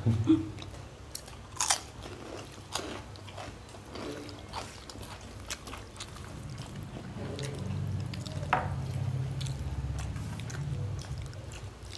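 Close-miked eating: chewing with scattered sharp crunches of crisp food every second or so.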